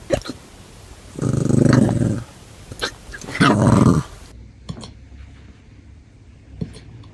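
A dog with hiccups: several short, sharp hiccups, and two longer growly sounds of about a second each near the start.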